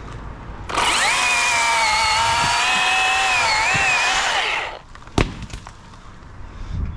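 Chainsaw running at high speed for about four seconds, its pitch wavering and dipping under load near the end, then stopping. About half a second after it stops comes a single sharp knock.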